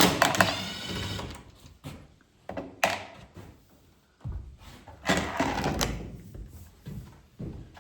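Handling noises from a microwave oven being pried at during disassembly: a loud grating scrape at the start, a sharp knock about three seconds in, and a longer clattering scrape about five seconds in.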